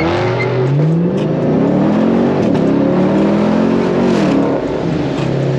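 Loud exhaust of a muffler-deleted Chevrolet Camaro SS V8 accelerating. The engine note climbs, climbs again after a gear change and holds, then falls off about four seconds in as the throttle eases.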